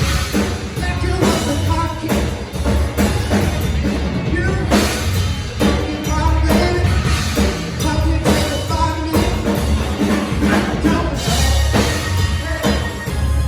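Live band playing rock music, with a steady drum-kit beat and heavy bass, and a voice singing along.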